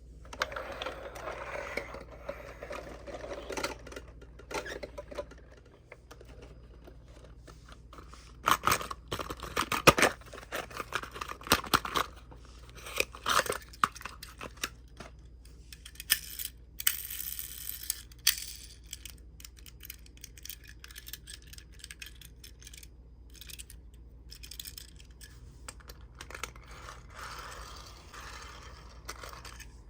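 Close-up handling of die-cast toy mini cars and their packaging: rustling and crinkling, a run of sharp clicks and taps of small metal and plastic pieces near the middle, and brief tearing hisses.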